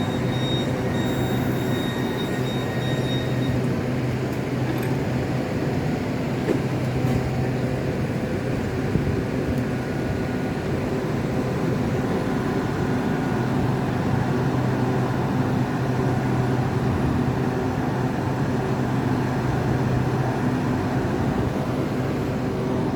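Southeastern Class 395 high-speed electric multiple unit standing at the platform between arrival and departure, its onboard equipment giving a steady, even hum with a few constant low tones.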